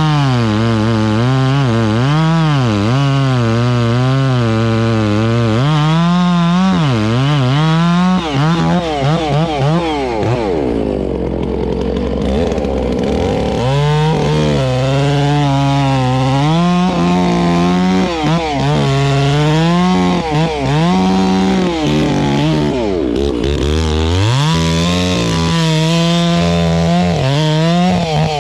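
Chainsaw cutting a log, its engine pitch rising and falling as the chain bogs in the wood and frees up, with a brief easing of revs about ten seconds in.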